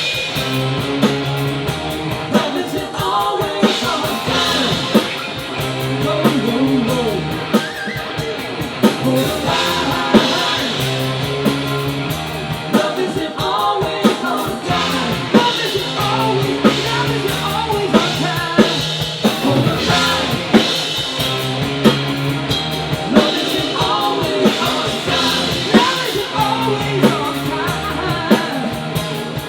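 Live rock band playing, with drum kit, electric guitar and bass keeping a steady beat, and a singing voice at times.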